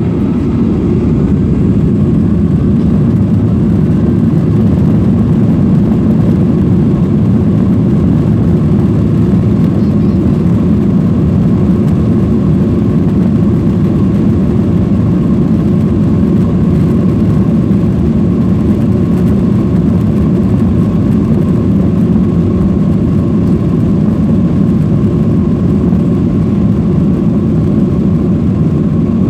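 Boeing 737-800's CFM56-7B jet engines running at takeoff thrust, heard from inside the cabin: a loud, steady deep rumble with a faint whine above it, building slightly in the first second and then holding level.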